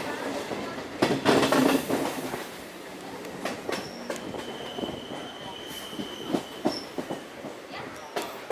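Electric suburban train running along the track, heard from inside the carriage: wheels clicking and knocking over rail joints, with a steady high whine for a few seconds midway.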